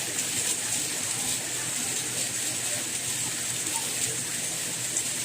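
Steady rain falling: an even hiss without pauses, with a bright high edge and no thunder or distinct single drops standing out.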